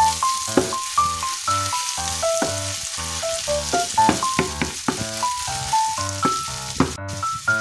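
Beef strips and green beans sizzling in a frying pan as they are stirred with a wooden spatula, under background music with a quick melody of short notes.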